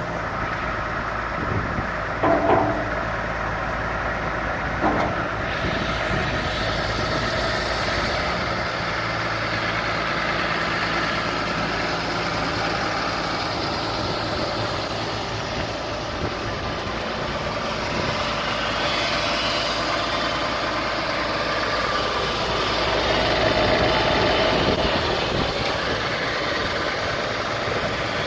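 Diesel engine of a 2004 Case IH MXU125 tractor running steadily at idle, with two brief louder noises about two and a half and five seconds in, and the engine getting somewhat louder near the end.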